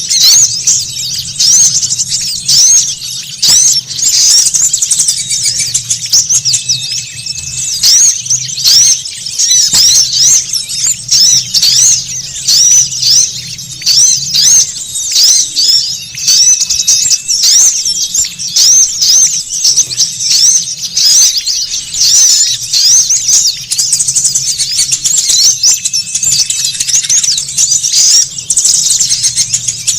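A noisy chorus of small songbirds chattering, with rapid high-pitched chirps and trills running on without a break: a bird-lure recording of excited small birds used to call in wild birds.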